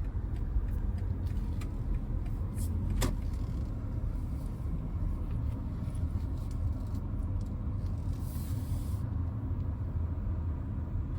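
Car travelling on the road: a steady low rumble of engine and tyres, with a few faint clicks and a brief hiss about eight seconds in.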